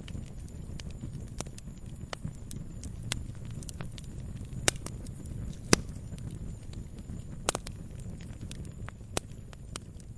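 Wood campfire crackling: irregular sharp snaps and pops of burning wood, a few much louder than the rest around the middle, over a steady low rumble of the flames.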